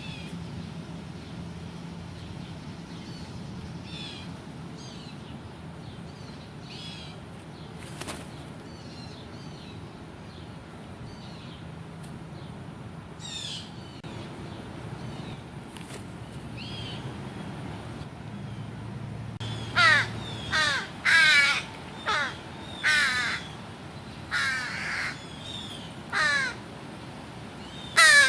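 American crows cawing: faint, scattered calls at first, then a run of about eight loud caws over the last nine seconds.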